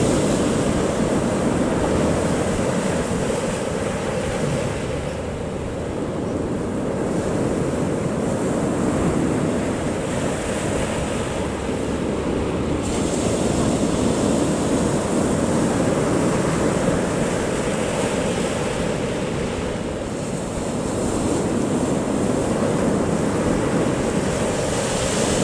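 Big sea waves breaking on a beach: a steady, loud rush of surf that eases and swells again, with wind on the microphone.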